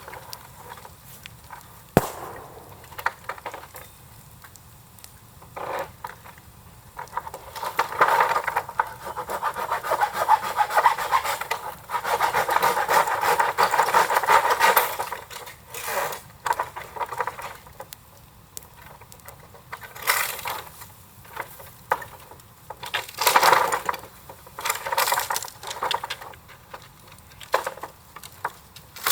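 Irregular scraping and rubbing in long and short spells, with a sharp knock about two seconds in.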